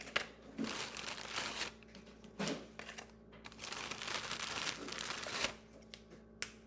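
Crinkly wrapping being handled, in three long crinkling rustles.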